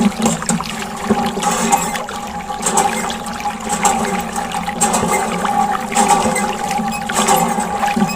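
Water running and splashing in an uneven stream, with a steady hum underneath.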